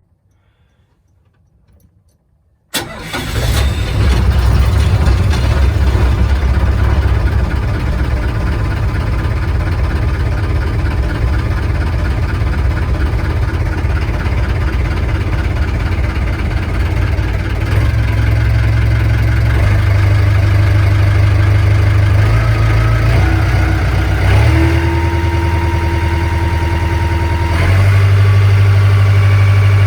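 Yanmar ZG26AP boat engine starting: near silence, then it catches suddenly a few seconds in and runs steadily at idle. It steps up slightly in level twice later on, with a faint whine for a few seconds before the second step.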